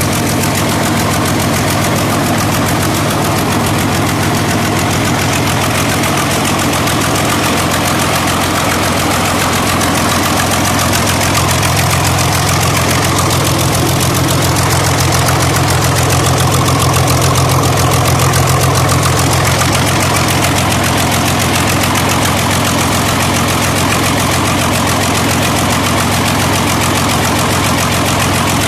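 YaMZ-240 V12 diesel engine running steadily after a rebuild, speeding up a little about twelve seconds in and settling back near twenty seconds.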